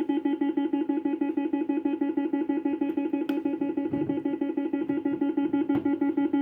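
Electronic sound of a 1970s penny fruit machine: one steady, buzzy tone pulsing rapidly and evenly, with two sharp clicks about three seconds and six seconds in.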